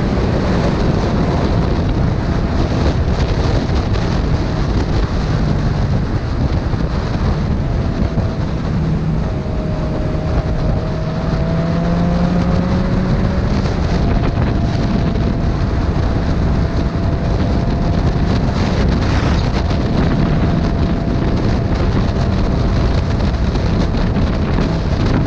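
Heavy wind rush on the microphone of a moving motorcycle, with the engine's hum running underneath. The engine's pitch rises steadily for a few seconds about halfway through as the bike accelerates, then holds steady.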